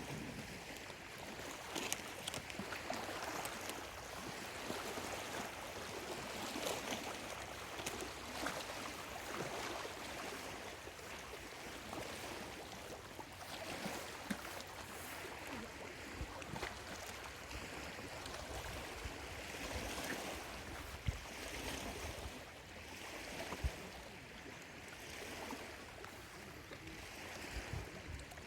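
Small lake waves lapping at the shore: a steady wash of water broken by many small splashes and laps.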